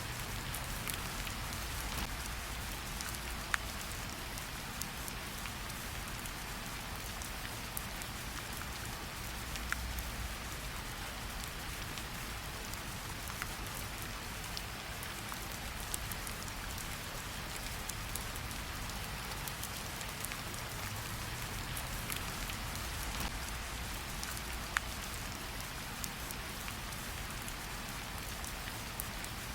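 Gentle rain falling on tree leaves: a steady soft patter with scattered louder single drops dripping off the leaves.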